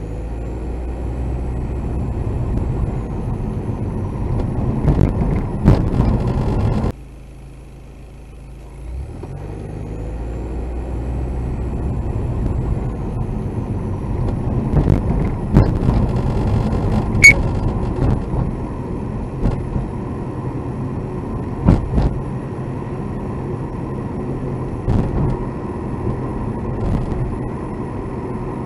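A car's interior noise while driving: a steady low road and engine rumble with sharp knocks or rattles now and then. These are the abnormal noise being recorded. The rumble drops away suddenly about seven seconds in, then builds back up.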